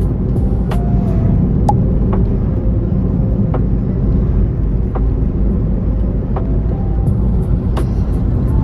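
Steady, loud low rumble of a boat engine under way, with scattered light clicks.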